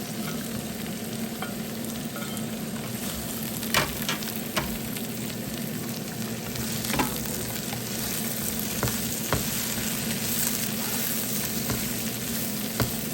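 Mushrooms, onion, garlic and red bell pepper sizzling in melted butter in a frying pan, a steady hiss broken by a few clicks of the utensil stirring against the pan.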